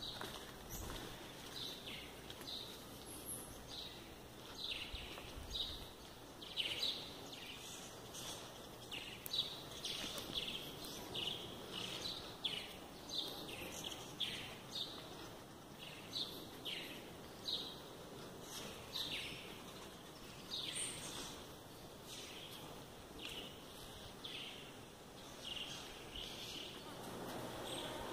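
Birds chirping: a long series of short, falling chirps, about one or two a second, over faint steady background noise.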